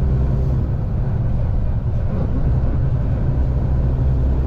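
Semi truck's diesel engine running steadily while driving, a low, even drone heard from inside the cab, the tractor pulling a loaded refrigerated trailer.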